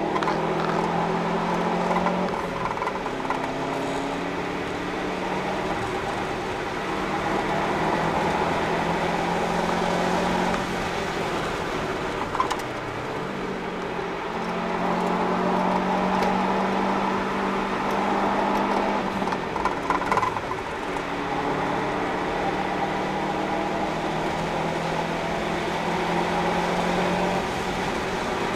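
In-cabin sound of a Subaru Impreza WRX's turbocharged flat-four, fitted with an Invidia cat-back exhaust, driven hard on track: the engine note rises and falls several times with throttle, lifts and gear changes, over steady tyre and road noise. A single sharp knock about twelve seconds in.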